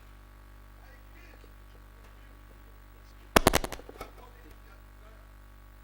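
A short, rapid burst of about half a dozen sharp bangs a few seconds in, followed by one more bang just after.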